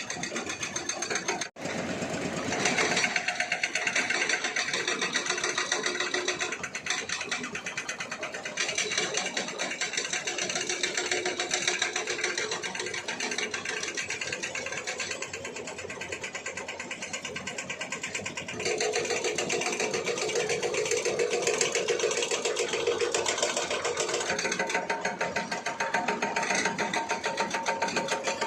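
Diesel engine running with a fast, even clatter. The sound drops out for an instant about one and a half seconds in, then comes back louder.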